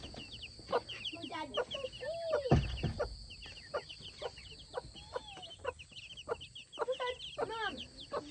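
Young chicks peeping: a dense run of short, high chirps that fall in pitch. A hen clucks lower underneath, with one louder, falling call about two and a half seconds in.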